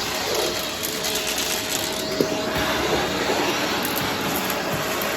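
Vacuum cleaner running with a steady hiss and a faint motor whine, with a few scattered sharp clicks, the clearest about two seconds in.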